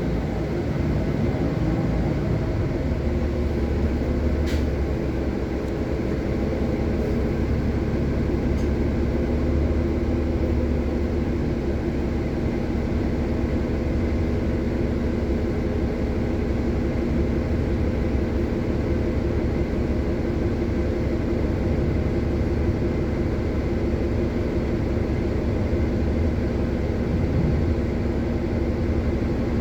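City bus running, heard from inside the cabin: a steady low engine and road rumble with a constant hum, and a single brief click about four and a half seconds in.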